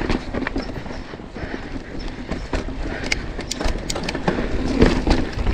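Mountain bike rolling over a rough dirt trail, with irregular clicks, knocks and clatter from the bike and tyres over a steady rush of tyre noise.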